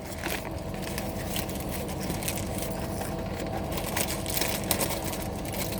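Chewing a bacon burger, with faint crunches and clicks and paper wrapper rustling, over a steady low hum and a thin steady tone.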